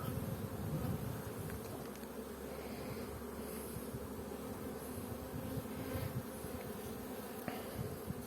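Honeybees buzzing steadily over a colony opened for frame inspection, with a few faint clicks.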